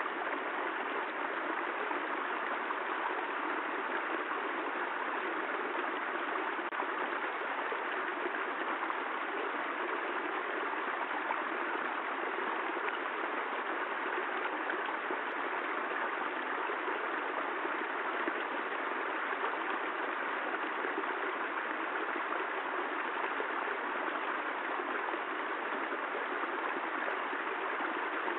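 Steady rushing water noise, even and unbroken, with no thunder or separate sounds.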